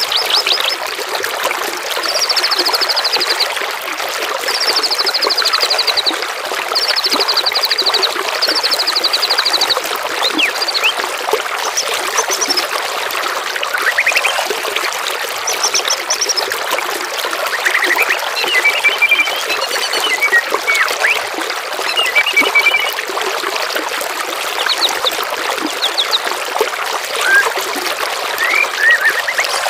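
Steady trickle of running water with songbirds singing over it: a fast high trill repeated four times in the first ten seconds, then assorted chirps and whistles.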